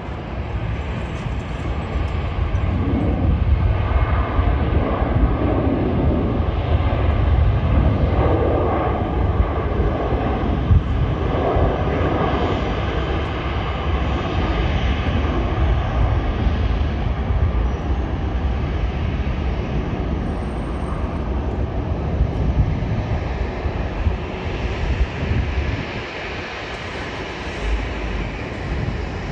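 Jet airliner's engines passing by, a rushing roar with a deep rumble that builds in the first few seconds and then slowly fades away.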